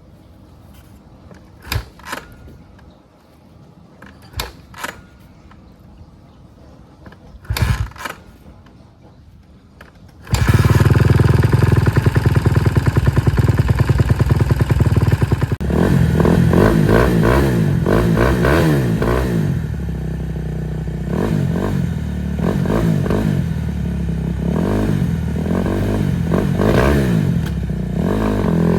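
Dirt bike engine cold-starting in freezing weather after a hard struggle. A few knocks come first, then the engine suddenly catches about ten seconds in and runs at a fast rough idle. From about sixteen seconds it is revved up and down repeatedly, falling off near the end.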